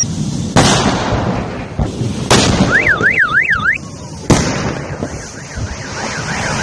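Three sudden explosions, about half a second in, just past two seconds and just past four seconds, over a continuous low rumble. A car alarm wails in a fast up-and-down warble between the second and third blasts and returns faintly near the end.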